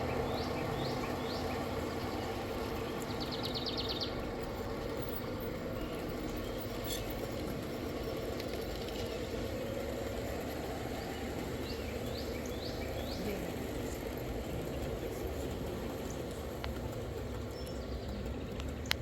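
A steady low mechanical hum or rumble, with small birds chirping over it: a few quick downward chirps at the start, a brief rapid trill about three seconds in, and more chirps about twelve seconds in.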